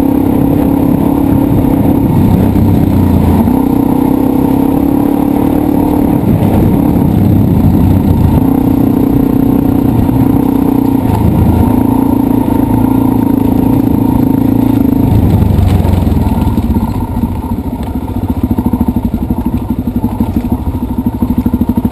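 Dirt bike engine running under way, the throttle held open for a second or two at a time and eased off in between. About three-quarters of the way through it drops to a lower, quieter, slower running.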